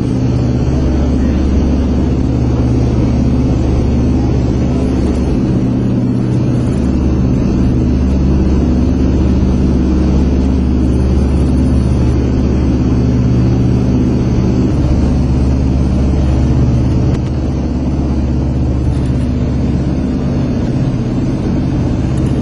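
Lockheed EC-121K Super Constellation's radial piston engines running steadily, a loud, even drone.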